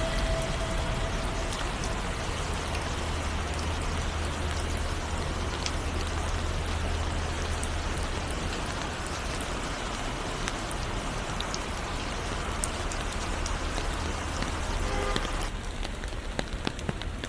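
Steady rain falling, an even hiss with scattered ticks of single drops. A faint held note from the song dies away about a second in. About fifteen seconds in, the hiss thins and the separate drop ticks stand out more.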